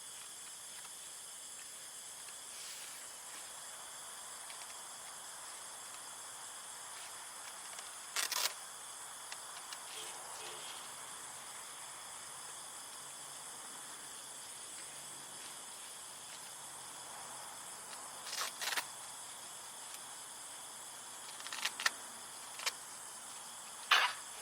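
Steady chorus of insects, several high shrill tones held without break. Four short clicks or knocks break in: one about a third of the way in, and three in the last third.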